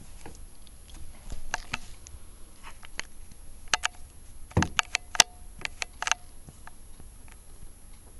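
Kittens moving about, making irregular light clicks, taps and scratches, busiest in the middle stretch.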